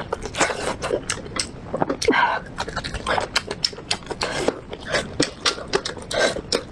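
Close-miked chewing and mouth sounds of a person eating: irregular wet smacks and clicks, several a second.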